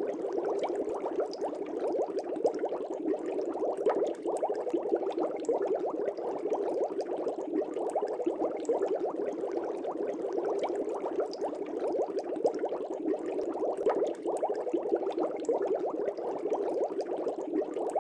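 Continuous bubbling of air bubbles rising through aquarium water, a dense steady stream of small pops and gurgles.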